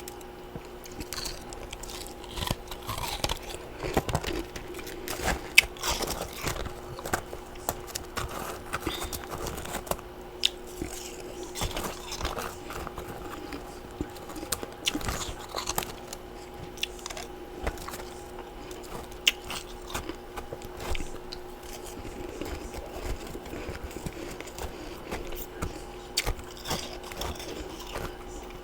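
Close-miked crunching and chewing of humidifier-grown freezer frost and ice chunks: a steady run of irregular crisp crunches and bites.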